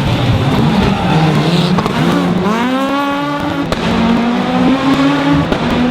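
Rally car engine revving. Its pitch wavers at first, climbs steeply about two seconds in, then holds steady and high.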